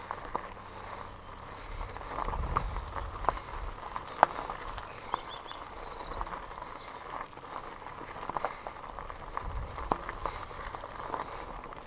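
Fat bike rattling over rough dirt trail: irregular sharp clicks and knocks from the bike and tyres on rocks, with gusts of wind rumbling on the microphone.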